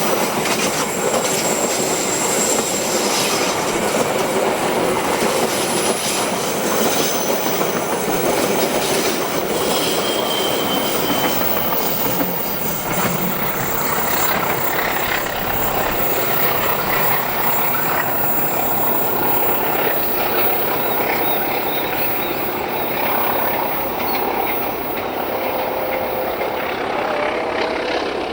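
Passing train: the steady rolling noise of railway cars' steel wheels on the rails, with a few faint high wheel squeals.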